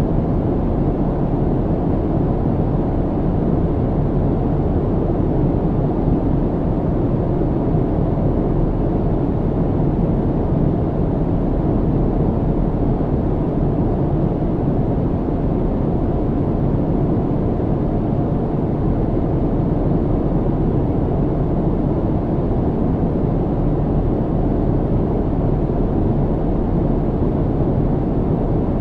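Steady low rumble of an airliner cabin in flight: engine and airflow noise, even and unbroken, deep with little hiss.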